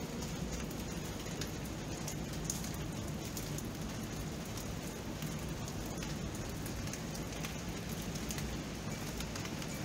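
Steady rain falling, with scattered individual drops ticking through the constant hiss.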